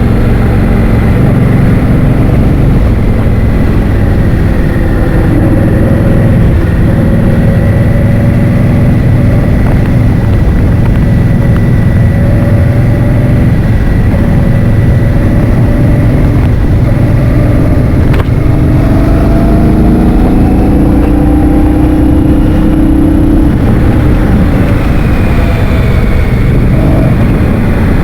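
Heavy wind noise buffeting the microphone of a moving road vehicle, over an engine whose note rises and falls in slow glides.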